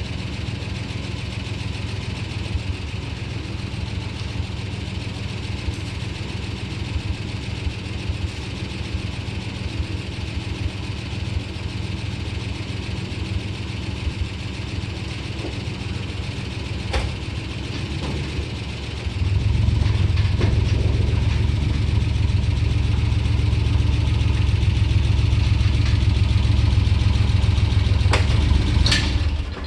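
Engine idling steadily, then running louder for the last ten seconds or so before it cuts off suddenly at the end, with a few sharp clicks along the way.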